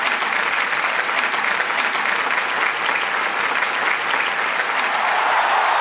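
A large crowd applauding steadily, the dense patter of many hands clapping at once.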